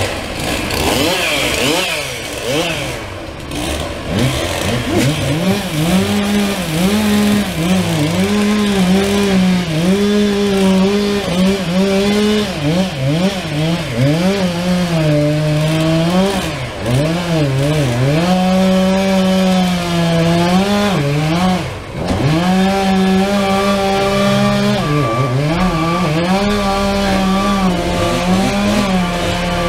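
Chainsaw running and cutting tree wood, its engine pitch dropping and recovering again and again as the chain loads up in the cut, then held steady near the end.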